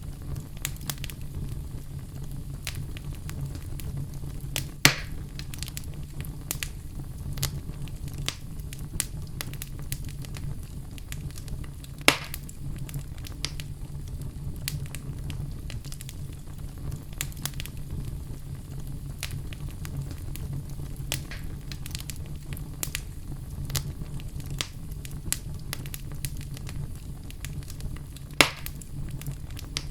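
Oak logs burning in a fireplace: a steady low rumble of flames under frequent crackles, with three loud pops about 5, 12 and 28 seconds in.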